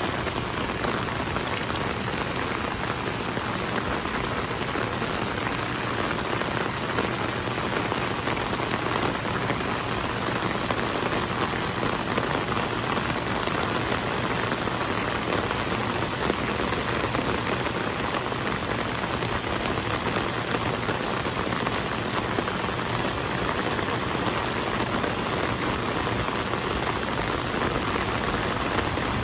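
Heavy rain pouring onto a pool of water and wet pavement: a steady, even hiss of countless drops.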